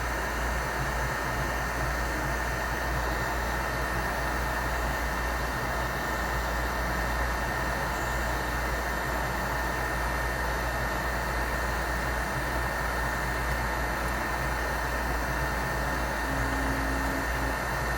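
Heat gun blowing steadily, a constant rushing noise with a faint steady high whine.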